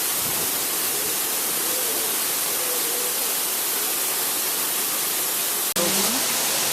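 Steady, loud rush of falling water. It cuts out for an instant near the end and resumes.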